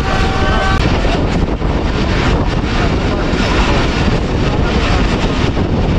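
Passenger train coach running at about 70 km/h: a steady rumble and rattle of wheels on the rails, with wind buffeting the microphone.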